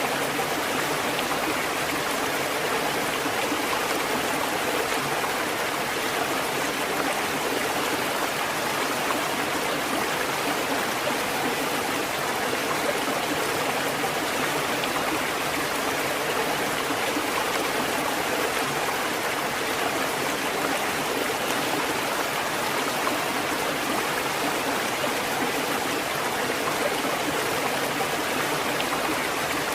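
Water fountain with a steady, even flow of running water and no breaks or knocks.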